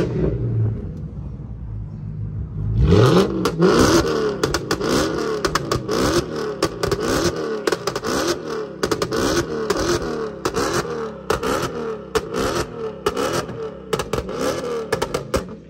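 BMW E60 550i's 4.8-litre V8 being revved through its quad-tip exhaust. After a few seconds of idle it is blipped up and down over and over in quick succession, with sharp crackles running through the revs, then settles just before the end.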